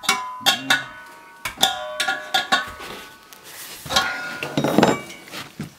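Metal parts clinking and clattering: a string of sharp strikes, each ringing briefly, followed by a longer, denser rattle about four seconds in.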